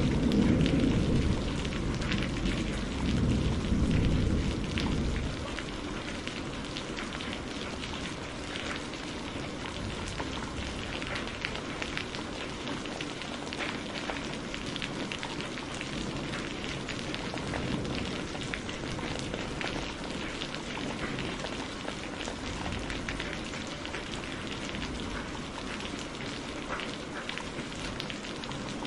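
Steady rain falling, with a deep rumble of thunder dying away over the first five seconds or so.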